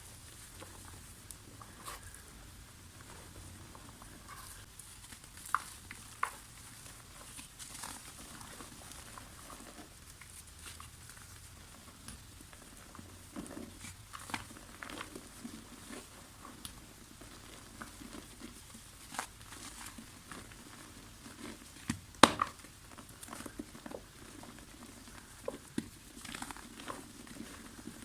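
Soft dry mud being crumbled by hand: faint, irregular crackles and small crunches, with a few sharper snaps, the loudest about two-thirds of the way through.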